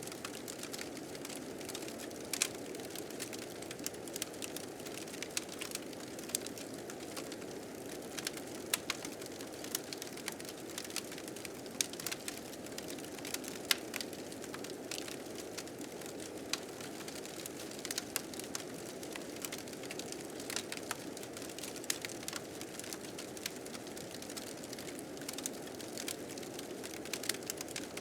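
Blizzard wind rushing with a steady low hiss, over a fire crackling with frequent sharp pops and snaps.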